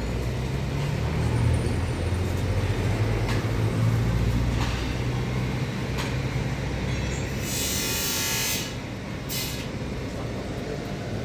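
A heavy vehicle's engine rumbling steadily, with a loud burst of hissing air about eight seconds in and a shorter hiss soon after; the rumble then drops away.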